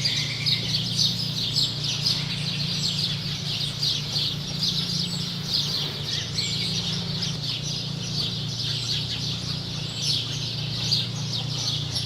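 Dense, continuous chatter of many short, high bird chirps, over a steady low hum.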